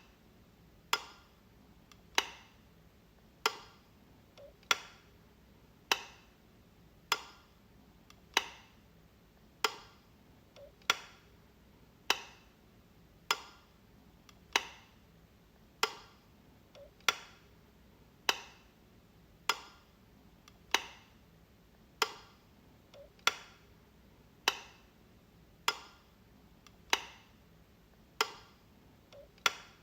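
A light switch clicked over and over, one sharp click about every second and a quarter, some with a fainter click just before.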